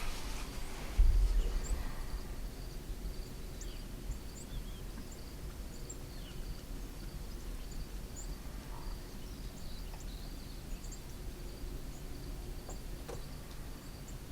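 Quiet outdoor ambience: a steady low rumble with a faint steady high hum, and scattered short bird chirps. A single low thump about a second in.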